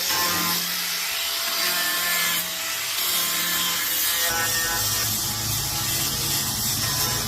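Rhythmic back-and-forth scraping strokes of a hand tool, about one a second. A little over four seconds in, a steady low motor hum starts under them.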